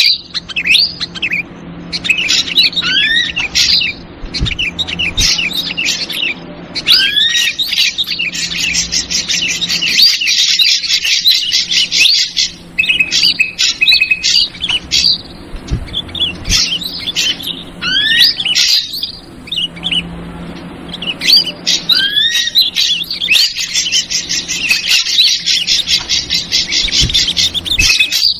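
Bird-lure recording of ashy drongo calls mixed with noisy, agitated bulbul (trucukan) chatter: rapid, dense chirping with short rising whistles, over a faint steady hum. The same stretch of calls repeats about every fifteen seconds, as a looped lure track.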